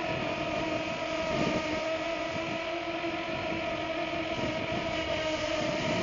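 Modified Parrot Swing minidrone's electric motors and propellers whining at a steady pitch in flight, with gusty wind buffeting the microphone.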